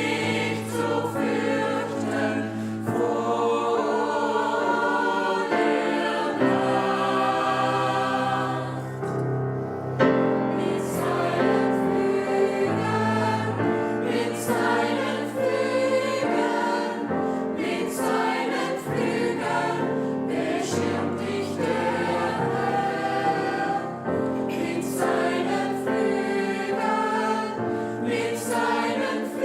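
Gospel choir singing in several parts, with held chords over a steady low bass line.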